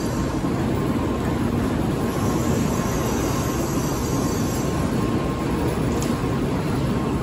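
Steady low rumbling hum of Shinkansen trains standing at a station platform, with a faint steady tone above it.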